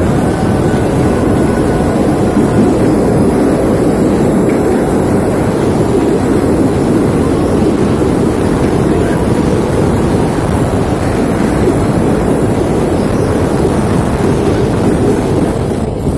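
Loud, steady wind noise rumbling on the microphone, with no breaks or changes.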